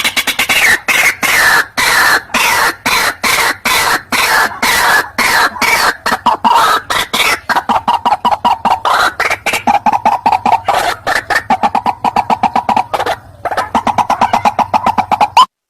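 White-breasted waterhen (ruak-ruak) calling: a loud, continuous series of harsh repeated notes that quickens past the middle, with a brief pause near the end.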